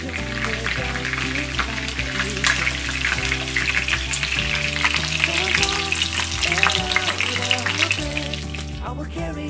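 Food frying in hot oil in a pan, a steady sizzle with many small crackles, heaviest in the middle and easing off near the end. Background music plays underneath.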